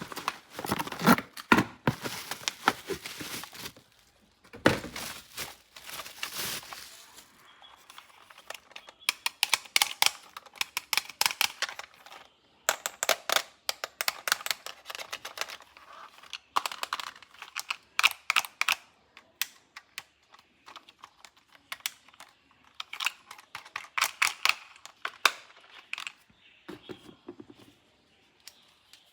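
Plastic toy packaging crinkling and tearing as it is opened, with quick clicks and rattles of plastic parts being handled, coming in bursts with short pauses between.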